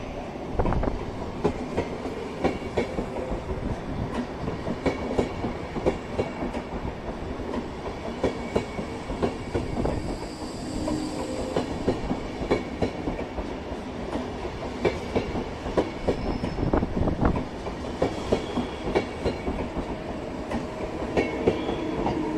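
SBB passenger train rolling past along the platform, its wheels clicking over rail joints and the carriages rumbling steadily, with a red electric locomotive passing near the end.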